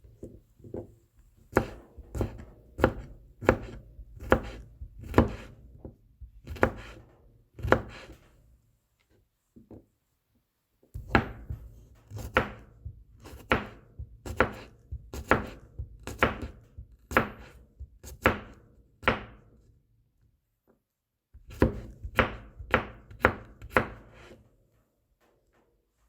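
Knife mincing garlic cloves: repeated sharp chopping strikes, about one to two a second, in three runs, with pauses of a couple of seconds between them.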